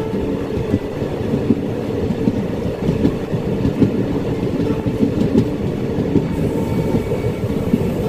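Passenger train coach running along the track, heard from inside at the window: a steady rumble with the wheels clicking and knocking over the rail joints.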